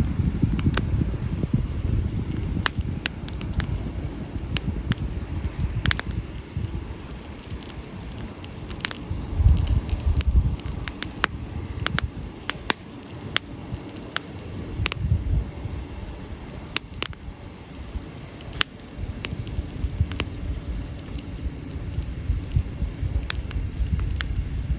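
Burning firewood crackling, with sharp irregular pops and snaps several times a second over a low rumble that swells twice, around the middle.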